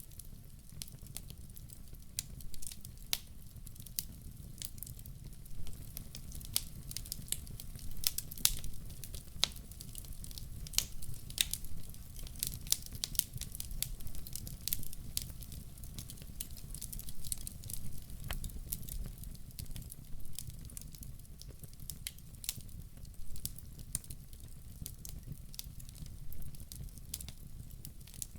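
Wood fire crackling: irregular sharp snaps and pops, thickest in the middle stretch, over a low steady rumble of the burning.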